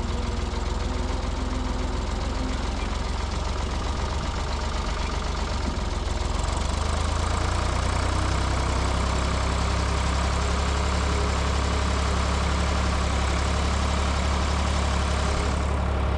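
Ford 555 backhoe loader's diesel engine running steadily with a knocking clatter, growing a little louder and heavier about seven seconds in.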